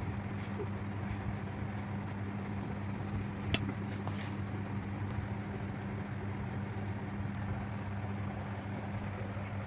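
A steady low hum over a constant hiss, with one sharp click about three and a half seconds in.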